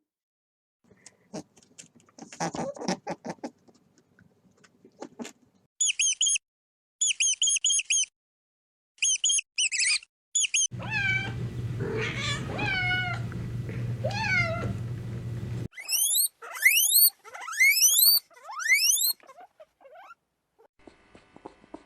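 A run of different animal calls, one after another. Soft clicks and rustling come first, then groups of short high chirps. Next come several wavering, rising-and-falling mewing calls over a steady low hum, and last a string of quick rising chirps.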